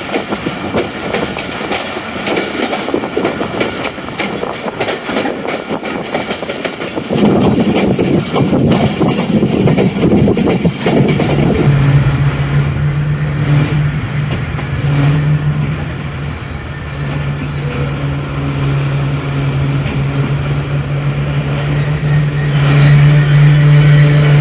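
Passenger train running on the rails with wheels clattering. A louder rumble comes in about seven seconds in, and from about halfway a steady low diesel-locomotive drone takes over.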